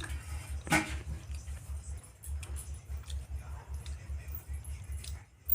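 A person eating by hand: chewing and small wet clicks and squishes. Under it runs a low hum that pulses about four to five times a second.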